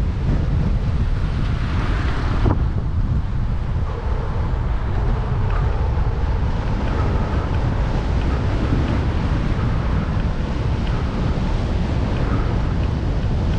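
Strong wind buffeting a cycling camera's microphone: a steady, dense low rumble. A higher hiss over it cuts off suddenly about two and a half seconds in.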